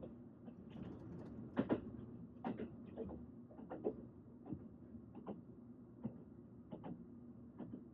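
Train running: a steady low rumble with a faint hum, broken by irregular clicks and knocks, the loudest a quick double knock about two seconds in.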